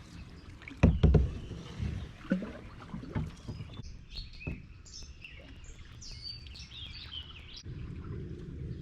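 Canoe being paddled: paddle strokes through the water with knocks against the hull, the loudest about a second in. Birds chirp in the middle.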